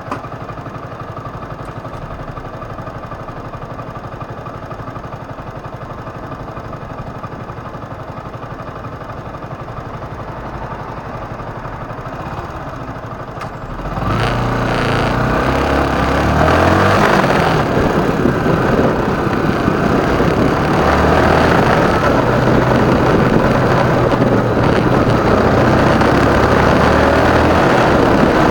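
Motorcycle engine ticking over steadily, then opening up about halfway through as the bike pulls away. It stays much louder while the bike rides on.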